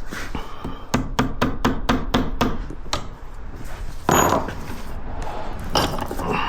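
Hammer striking metal on an ATV CV axle joint: a quick run of about ten blows, roughly five a second, then a couple of heavier single knocks.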